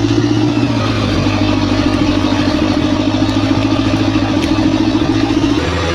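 Bulldozer's diesel engine running steadily under load, its note shifting a little near the end.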